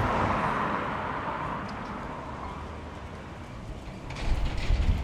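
Wind on an action camera's microphone: a rushing sound swells and fades over the first few seconds, then gusts buffet the microphone with a heavy low rumble about four seconds in.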